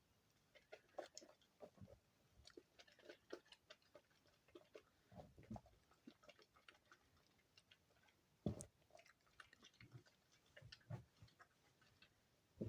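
Soap shavings and soft soap being pressed and squeezed together by hand: quiet, irregular small crackles and clicks with a few soft thumps, one louder knock about two-thirds of the way through.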